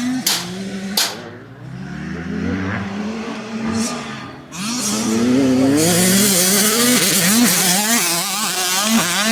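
Motocross bike engine revving hard through the gears, its pitch climbing and dropping repeatedly; about halfway through it gets much louder as the bike accelerates hard close by.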